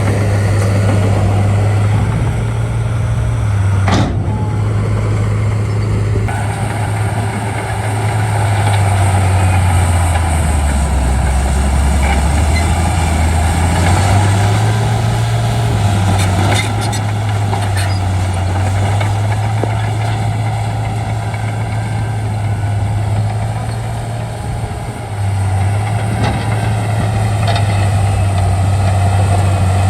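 Diesel engine of a Shantui D95 crawler bulldozer running steadily at work. Its note drops about ten seconds in and picks back up a few seconds later, with a sharp click about four seconds in.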